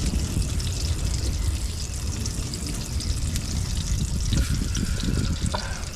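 Steady rain falling with water trickling, a constant hiss threaded with fine ticks, with a few faint handling knocks near the end.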